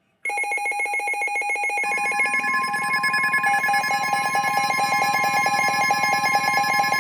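Weather radio warning alert: a rapidly warbling electronic alarm starts about a quarter second in, and a steady tone near 1 kHz joins it about two seconds in. This is the NOAA Weather Radio attention signal that comes ahead of a spoken high wind warning.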